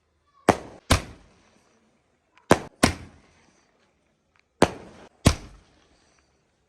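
Firecrackers going off: six sharp bangs in three pairs about two seconds apart, each with a short echoing tail.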